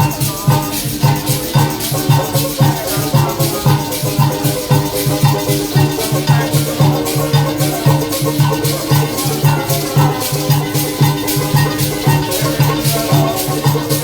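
Parang band playing an instrumental passage, with a steady low bass pulse about twice a second under shaken maracas and pitched instruments.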